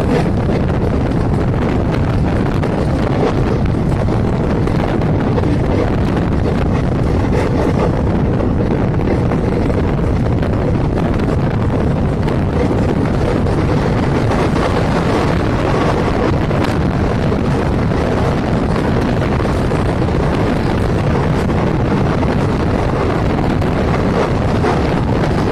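Indian Railways passenger train running at speed: a steady, unbroken noise of wheels on rails, with wind buffeting the microphone.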